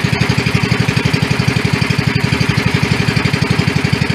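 Pump boat's engine running steadily at speed, with a rapid, even chugging and no change in pace.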